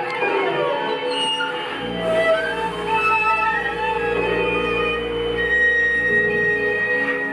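Instrumental music from a small live ensemble: long held notes, with a low drone coming in about two seconds in.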